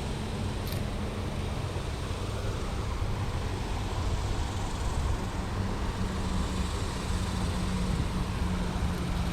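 Steady rumble of nearby road traffic, with a low engine hum running underneath.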